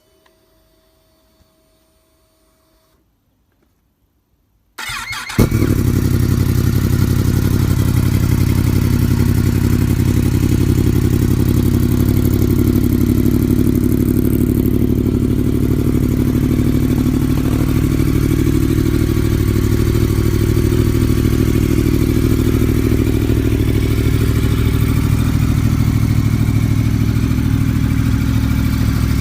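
Honda CB1000 motorcycle's inline-four engine starting about five seconds in, then idling steadily and loudly through an aftermarket exhaust with its baffle removed.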